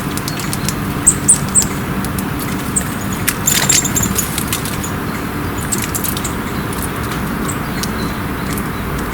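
Short high chirps of small songbirds, a few in quick succession about a second in and a cluster with sharp taps around the middle, over a steady low hum of road traffic.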